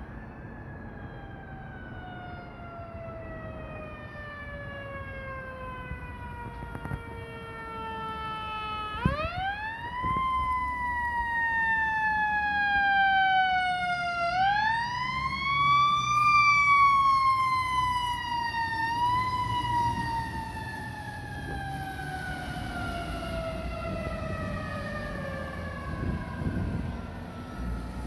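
Fire truck siren winding up quickly and coasting slowly down in pitch, wound up again twice and given a short blip, then left to wind down and fade near the end. Its rapid rise and slow fall are the pattern of a mechanical siren.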